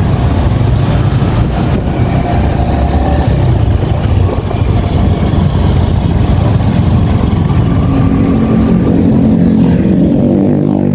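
Yamaha XSR 155's single-cylinder 155 cc engine running under way, mixed with wind rush on the microphone. About eight seconds in the wind noise eases and the engine's steady note comes through more clearly.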